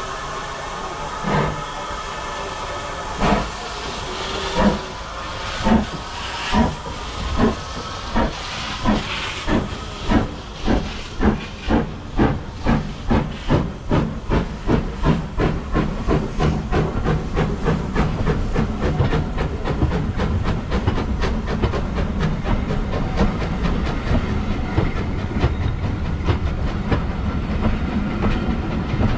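Steam locomotive pulling away with steam hissing. Its exhaust chuffs start more than a second apart and quicken steadily until they run together into a fast, even beat.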